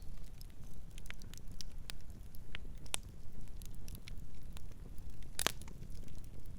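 Campfire crackling with scattered sharp pops and one louder snap about five and a half seconds in, over a steady low rumble.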